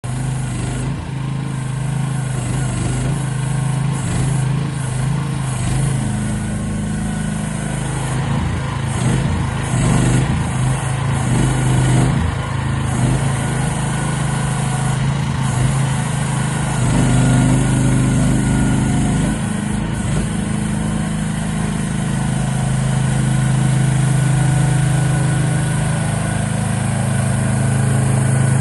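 Small petrol engine of an AGT XK12G R mini excavator running continuously. Its note shifts up and down several times, about six seconds in, unsettled for a few seconds after that, and again around seventeen, twenty and twenty-two seconds.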